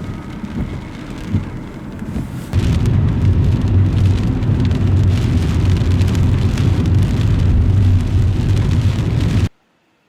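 Typhoon wind and rain on the microphone, a dense rushing noise with a heavy low rumble. It gets much louder about two and a half seconds in and cuts off abruptly near the end.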